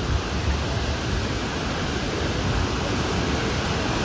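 Nugget Falls, a waterfall, pouring steadily: an even, unbroken rush of falling water.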